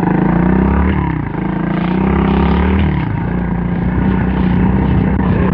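A 110 cc four-stroke pit bike engine running. Its revs dip briefly about a second in and again near three seconds, then hold steady.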